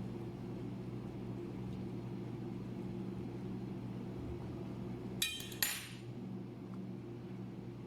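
Two sharp clinks of dishes or utensils knocking together, close together about five seconds in, over a steady low mechanical hum.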